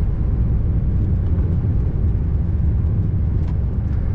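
Scania R590 tractor unit's V8 diesel engine running steadily under way, with road noise: an even, low rumble.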